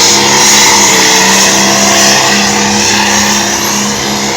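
Pulling vehicle's engine running loud and steady at full throttle while it drags the weight sled down the track, easing off slightly near the end.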